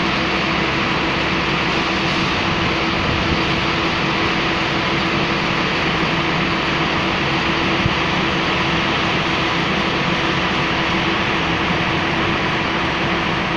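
A train running steadily at the station: an even mechanical noise with a constant hum.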